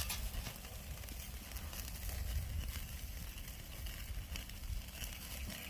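Oak firewood fire crackling, with scattered sharp pops over a steady hiss and a low rumble underneath.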